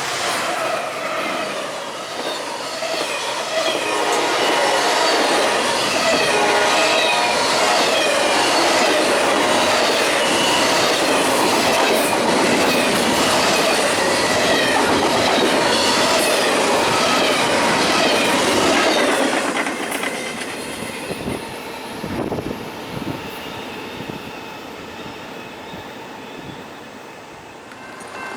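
Train passing close by, wheels clacking over the rail joints with repeated wheel squeal; after about 19 seconds it fades as the train moves away.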